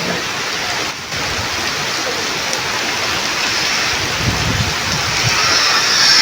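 Heavy rain pouring down in a steady downpour, with low gusts of strong wind buffeting the microphone about four seconds in.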